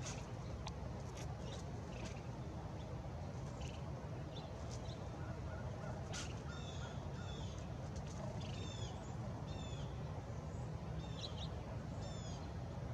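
Small birds calling: short arching chirps, mostly in pairs, repeated several times from about halfway through, over a steady low rumble with a few faint ticks.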